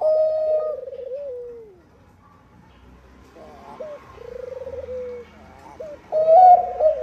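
Zebra dove of the Bangkok-bred perkutut line cooing: a loud trilled phrase that trails off downward in pitch, a pause with softer coos, then loud cooing again near the end.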